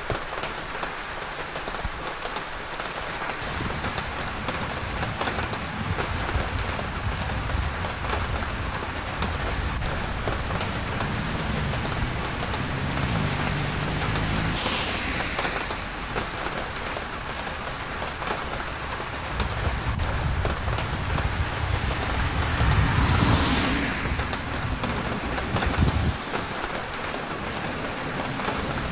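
Steady rain on a city street, with vehicles passing on the wet road: two pass-bys, about halfway through and again some eight seconds later, each a swell of engine rumble and tyre hiss, the second the louder.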